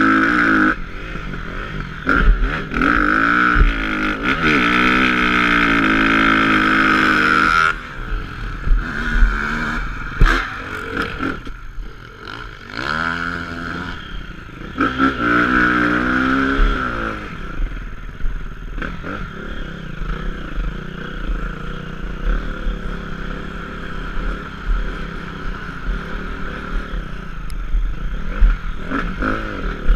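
Dirt bike engine revving up and down as it is ridden through rough trail, in two long spells of rising and falling revs, the first cutting off suddenly about eight seconds in. Knocks and rattles from the bike come through between the revs.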